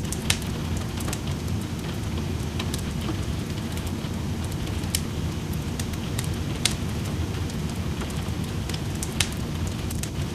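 Steady rain with a fireplace crackling over it: frequent sharp pops and snaps from the burning wood, a few louder pops about two seconds apart, over an even low rush of rain.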